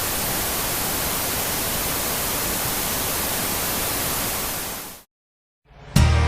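Steady static hiss, even from low to high, fading out about five seconds in; after a moment of silence, music begins near the end.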